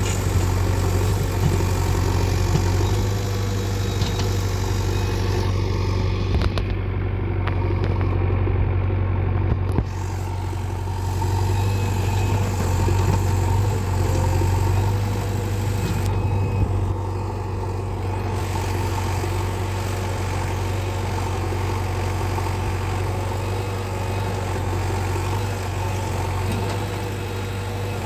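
Heavy diesel engine running steadily at a low, even speed, with a few faint clicks.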